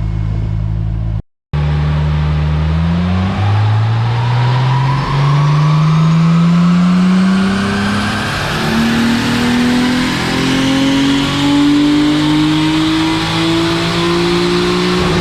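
Toyota 2JZ-GTE turbocharged inline-six running at full throttle on a chassis dyno: after a short steady hold, the revs climb steadily and unbroken for about twelve seconds in a full power pull.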